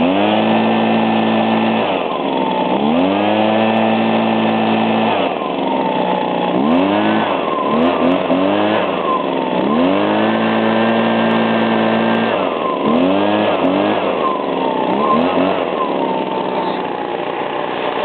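Small Echo two-stroke engine revved up and down after warming up: three times it is held at high revs for a couple of seconds, with several quick throttle blips between, then it drops back to idle near the end.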